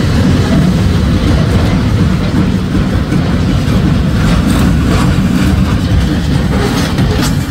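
Freight train moving slowly with a derailed covered hopper car, its wheels off the rail, dragged along: a loud, steady low rumble with scattered faint clicks and knocks.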